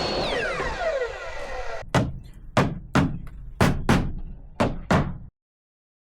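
A power saw spinning down after a cut, its whine gliding steadily lower over about two seconds, followed by seven sharp knocks at an uneven pace.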